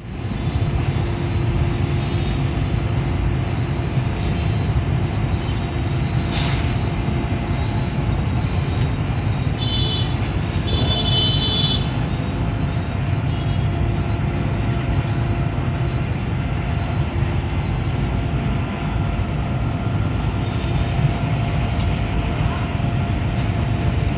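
Heavy diesel vehicle engine running with a steady low rumble, plausibly a fire truck. About ten seconds in come two short high squeals, like air brakes, and a single click comes a little before them.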